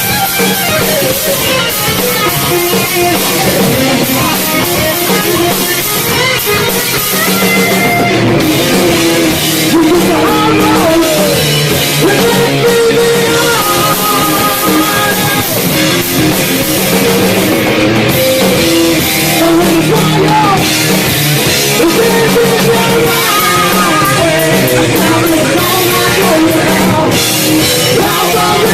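Live rock band playing loudly with electric guitars and drum kit, recorded in a bar.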